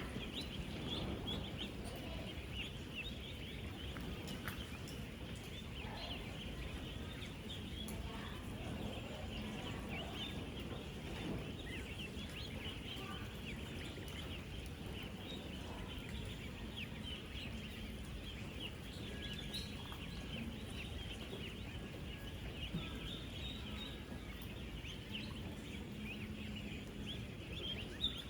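A huge flock of ten-day-old ducklings peeping continuously, thousands of short high calls overlapping into a dense chorus over a steady low background noise. A brief knock sounds near the end.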